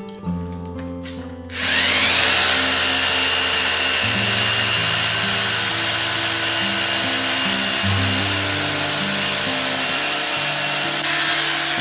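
A handheld power tool starts up about a second and a half in, its high whine rising as it gets up to speed. It then runs steadily with a loud, even whine and dies away near the end. Strummed guitar music plays throughout.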